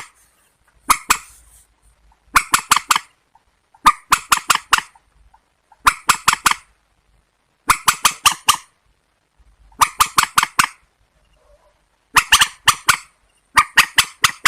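Calls of a rail, the kind of bird in this swamphen and waterhen recording: short bursts of three to five rapid notes, repeated about every two seconds.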